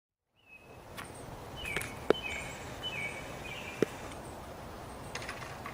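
Outdoor ambience: birds chirping faintly over steady background noise, with two sharp clicks about two and four seconds in.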